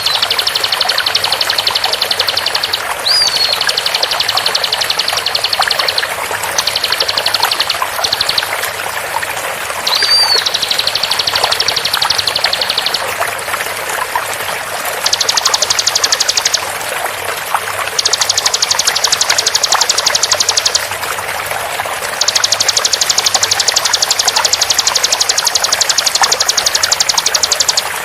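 Bar-winged prinia (ciblek) song: a series of long, very fast trills of rapidly repeated high notes, each lasting a few seconds with short pauses between. Several trills open with a short whistled slur. A steady sound of running water lies underneath.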